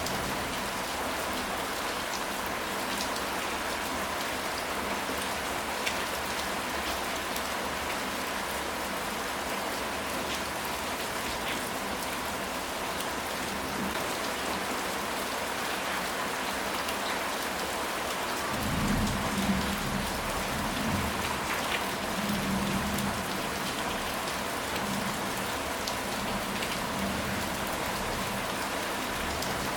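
Steady rain falling, with a low rumble of thunder lasting a few seconds starting a little past the middle.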